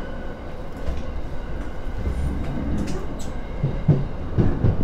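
Running noise inside a JR East E231 series commuter train: a steady rumble of wheels on rail, with a cluster of louder knocks from the wheels over the track between about three and four and a half seconds in.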